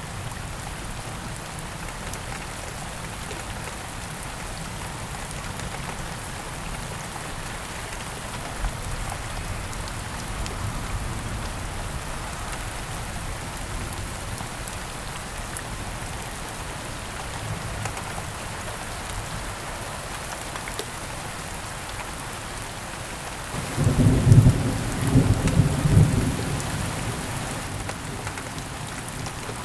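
Steady heavy rain falling, with a roll of thunder about three quarters of the way through, lasting around three seconds.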